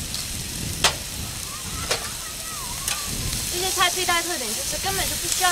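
Mushrooms and bell peppers sizzling steadily in oil on a hot steel plancha griddle plate. Three sharp knocks come about a second apart in the first half, and metal spatulas then work the food on the plate.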